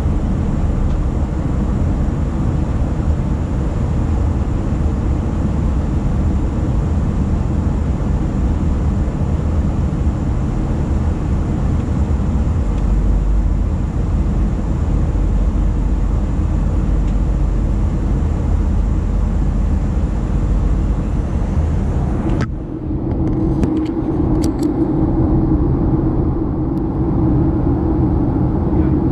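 Boeing 737-900ER cabin noise on approach: a steady roar of engines and airflow. About three-quarters of the way through, the sound changes abruptly to a deeper, steadier hum, with a few faint clicks.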